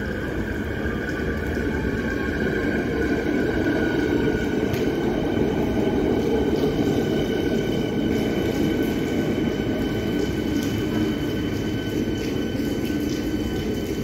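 Electric suburban train pulling into the platform and slowing: a loud steady rumble of wheels and running gear, with a high whine over it that sinks slightly in pitch.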